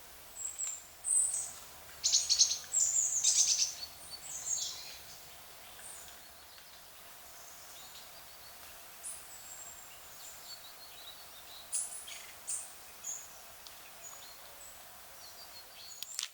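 Wild birds chirping and calling. Short, high chirps come in a busy, loud cluster over the first few seconds, then thin out into scattered, fainter calls.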